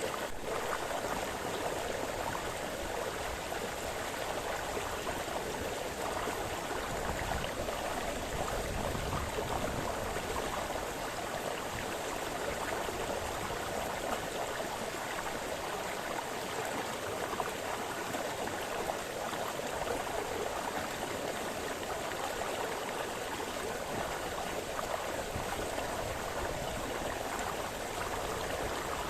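A small brook babbling and splashing over stones, a steady, even rush of water.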